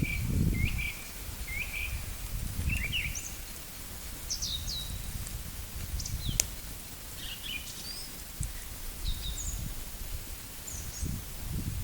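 Small songbirds chirping in short, quick notes, several calls overlapping, over a low rumble of wind on the microphone that is stronger at the start and near the end. One sharp crack about six seconds in.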